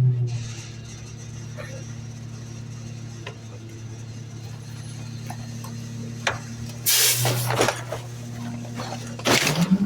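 Garbage truck's diesel engine running steadily, with two loud hissing rushes of noise about seven and nine seconds in and the engine speeding up right at the end.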